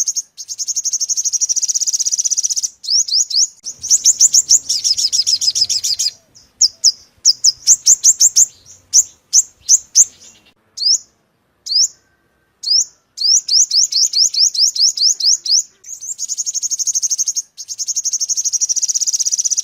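Sunbird song used as a lure call: fast trills of short, high, rising notes, broken by brief gaps, with a looser run of separate notes in the middle before the rapid trill returns.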